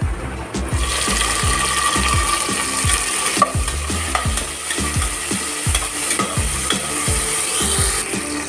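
Tomato and green chilli pieces sizzling in hot ghee with fried onions in an aluminium pressure cooker. A spatula stirs and scrapes the pan; the sizzle swells about a second in.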